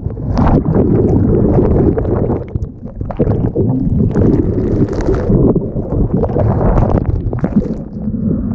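Stormy sea surf churning and washing over a camera in the water: a muffled, low rush of water that surges again and again.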